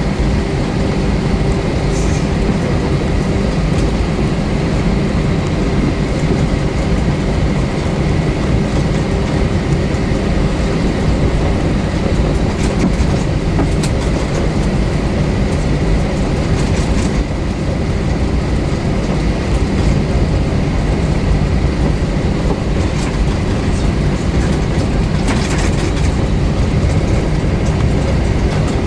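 Steady cabin noise inside an Airbus A320-232 airliner: a loud, even rumble from its IAE V2500 engines and airframe, with a faint steady whine above it.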